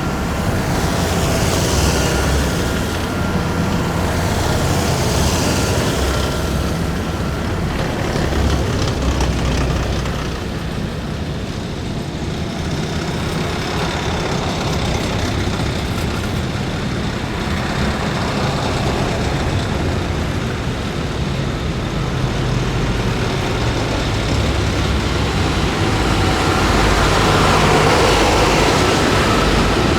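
Heavy military vehicles driving past in a column: continuous deep engine rumble with tyre hiss swelling as each one passes. A steady high whine is heard near the start and again near the end, and the sound grows a little louder over the last few seconds.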